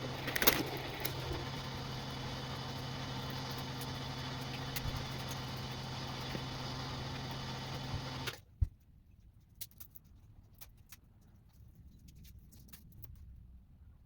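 Electric motor of a wire-stripping machine running with a steady hum, then switched off and stopping abruptly about eight seconds in. A single knock and a few faint clicks follow.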